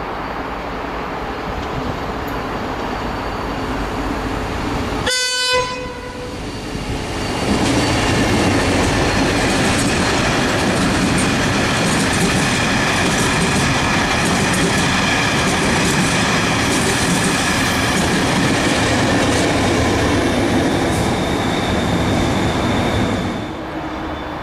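Diesel-hauled ballast train of hopper wagons passing close. The approaching train gives one short horn blast about five seconds in. Then the locomotive and the long rake of hopper wagons run past with loud clattering wheel noise and a steady high ring over it. The noise drops away near the end as the trailing 071 class diesel locomotive goes by.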